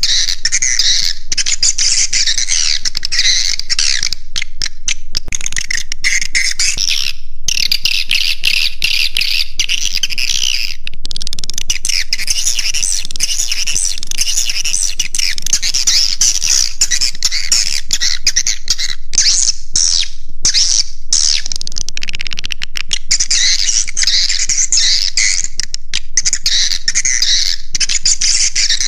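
Swiftlet calls played as a roosting lure for swiftlet nest houses: a dense, continuous chittering of many birds in a high register. It breaks off briefly a few times, about 7 and 11 seconds in and again around 20 seconds.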